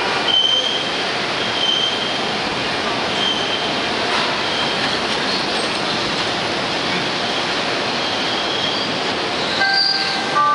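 Morrison-Knudsen 3200-series "L" train running along an elevated platform with a steady rumble of wheels on rail. Short high wheel squeals recur every second or two. A brief steady tone with a few pitches sounds near the end.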